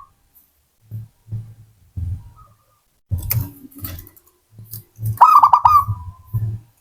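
Zebra dove (perkutut) cooing: one burst of quickly repeated warbling notes about five seconds in. Short low thuds come and go throughout, with a few sharp clicks.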